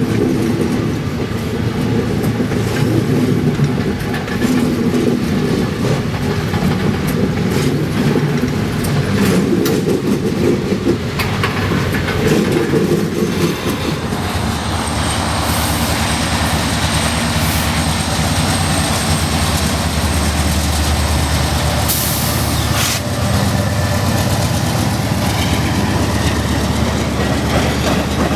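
Diesel freight locomotives running past at close range for about the first half, followed by freight cars rolling by with wheels clicking over the rail joints. A thin, high, steady squeal is heard for several seconds in the middle of the freight-car part.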